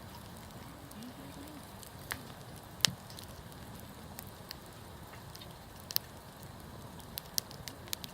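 Wood campfire crackling, with scattered sharp pops from the burning wood, the loudest a little under three seconds in and a quick run of smaller pops near the end.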